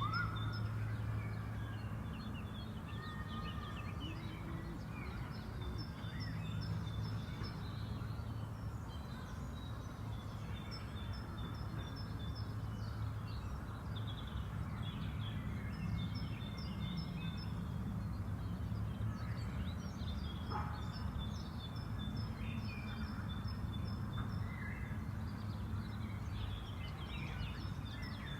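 Park ambience: several small songbirds singing and chirping in short repeated trills, over a steady low background rumble.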